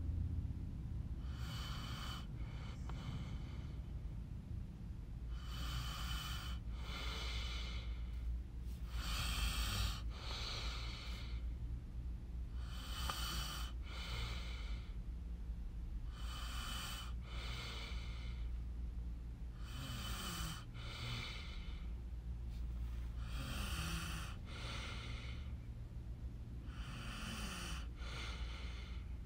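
A person breathing close to the microphone, through the nose, an in-and-out pair of breaths about every three and a half seconds, over a steady low hum.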